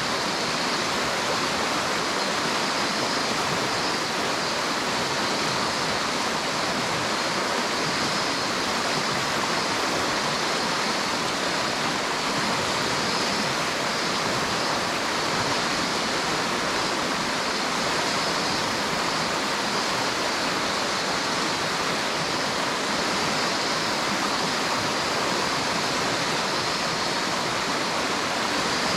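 River water flowing steadily with a constant rushing sound.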